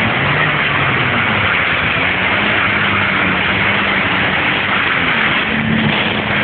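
Steady vehicle noise: a dense rushing hiss with a low engine hum that drifts up and down in pitch.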